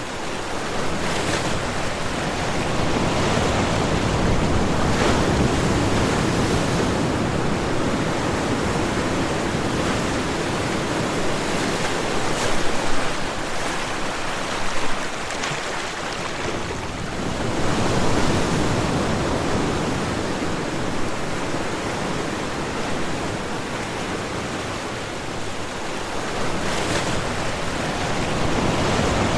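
Ocean waves breaking on a shore: a continuous rush of surf that swells and eases over several seconds, with a couple of brief sharper splashes near the middle.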